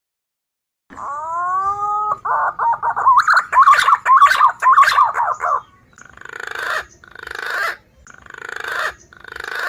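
Recorded calls of a green pigeon (punai) played as a bird lure. A rising whistled note, then a quick warbling run of whistles, then four hoarse, rasping calls about a second apart.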